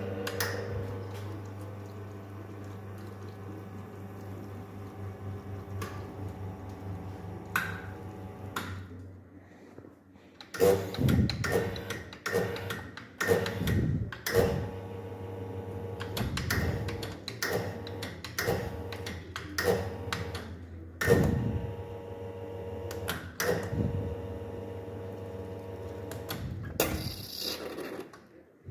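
Wega Polaris two-group espresso machine: a steady pump hum for about nine seconds, then a run of sharp knocks and clinks of metal and crockery being handled.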